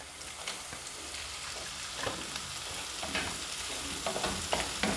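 Chopped onions sizzling in hot oil in a frying pan, stir-fried on a high gas flame. A wooden spatula stirs and scrapes through them a few times from about two seconds in.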